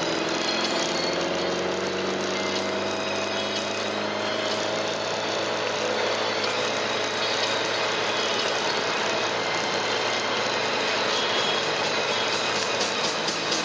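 Volvo P1800's four-cylinder engine pulling as the car gathers speed, its note rising over the first few seconds and then holding steady, heard from inside the car over wind and road noise.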